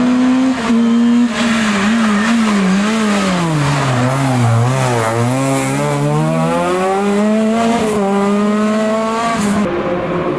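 Historic rally car engine at high revs, the pitch wavering as the throttle is blipped, then dropping steeply as the car slows, and climbing steadily back up as it accelerates hard away.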